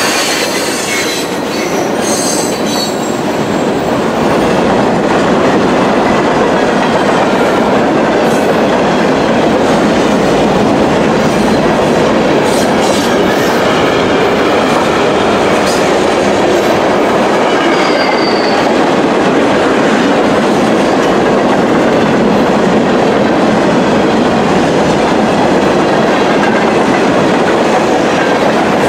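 Railway cars of a passing train rolling by on the rails, a loud steady clatter, with brief high wheel squeals now and then.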